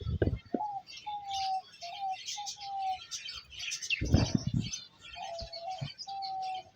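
Birds calling: a run of short, clear whistled notes, each slightly falling, with higher chirping and twittering throughout. A low thump or rumble comes about four seconds in.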